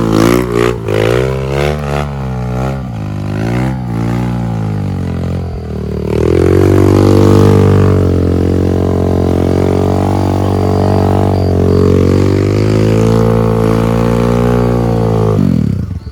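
Trail motorcycle engine revving up and down several times, then held at steady high revs for about ten seconds before the pitch falls away sharply near the end.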